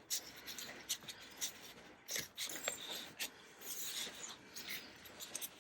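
Paper and card being handled close by: soft rustling and sliding, broken by scattered small taps and clicks at irregular intervals.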